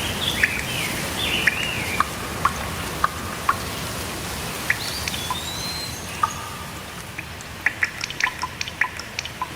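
Steady rain with water drops plinking at irregular intervals, the drips coming thicker near the end. Birds chirp through the first couple of seconds, and one rising call comes about five seconds in.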